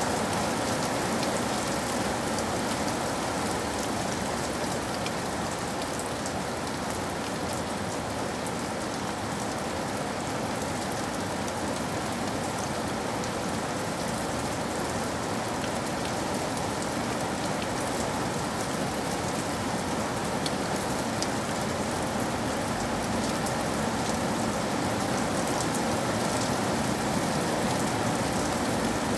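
Steady rain falling on a surface, an even hiss with the patter of individual drops.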